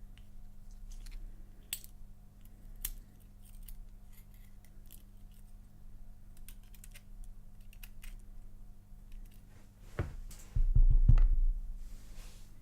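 Scattered small metallic clicks and taps as a padlock core's shim, pin-tumbler pins and springs are worked out with a tool. About ten seconds in there is a louder low thump and rumble lasting a second or so, handling noise against the bench or microphone.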